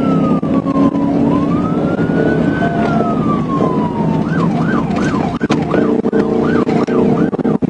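Police car siren on a pursuit, wailing in two slow rising and falling sweeps, then switching about halfway through to a fast yelp of about two cycles a second, over steady vehicle noise.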